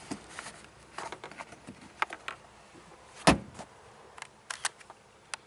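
Clicks and rustling of a pickup truck's door and cab being handled, with one sharp knock about three seconds in.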